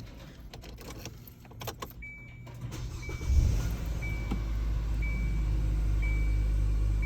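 Car engine starting about three seconds in, then idling steadily on a cold start. A dashboard warning chime beeps about once a second, and a few clicks and knocks come before the start.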